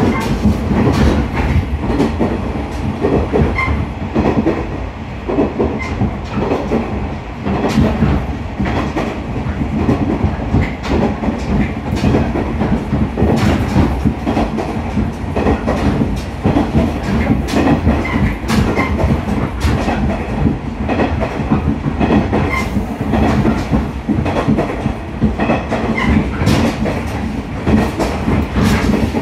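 Interior running noise of a JR KiHa 110 series diesel railcar at speed: a steady low drone with many sharp clicks of the wheels over rail joints.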